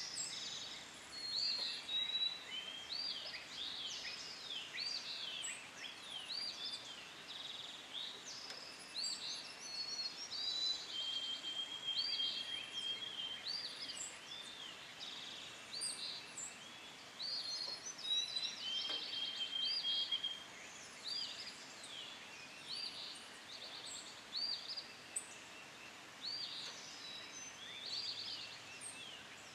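Several songbirds calling and singing at once, a busy mix of quick chirps and whistles, with a longer steady trill twice near the middle.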